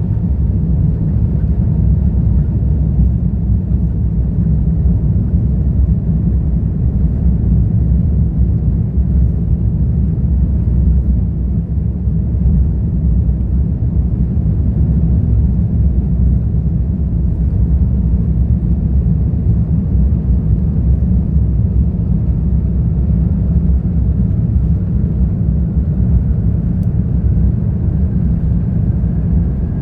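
Airbus A350-1000 airliner taking off, heard as a loud, steady deep rumble of its Rolls-Royce Trent XWB engines at high thrust, with a faint whine rising in pitch near the end.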